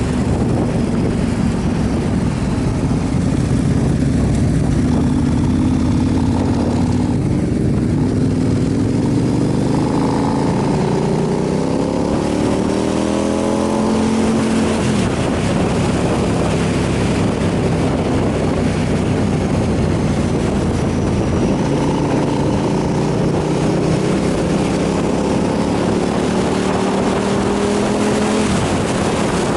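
Motorcycle engine running at road speed under heavy wind rush on the microphone. The engine pitch climbs under acceleration, drops suddenly at a gear change about halfway through, then climbs again near the end.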